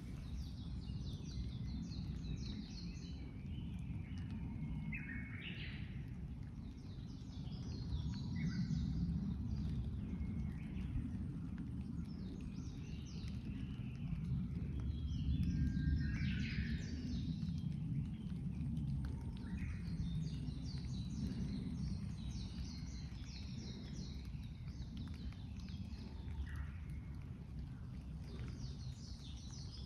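Several small songbirds chirping and singing, with short calls and trills scattered throughout, over a steady low rumble.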